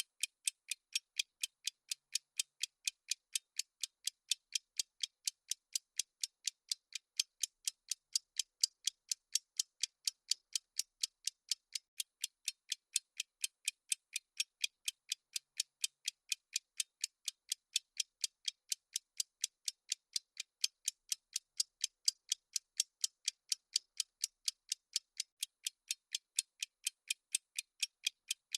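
Countdown timer's clock-tick sound effect: short, thin, high ticks repeating evenly at about three a second.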